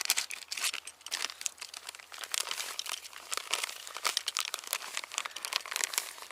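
A packet of store-bought fishing groundbait being handled, its packaging crinkling and rustling in dense, irregular crackles.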